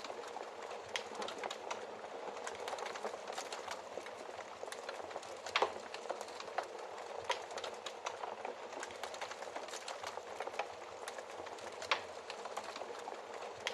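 Wood fire crackling: a steady hiss with frequent small snaps and a few louder pops, the loudest about five and a half seconds in and again near twelve seconds.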